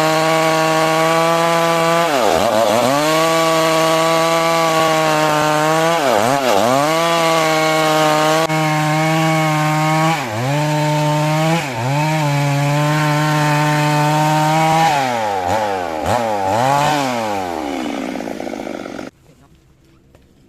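Stihl MS 382 two-stroke chainsaw running at full throttle cutting through a large rain tree log, its pitch dipping briefly several times as the chain loads up in the cut and then recovering. Near the end the engine sags lower and then cuts off suddenly.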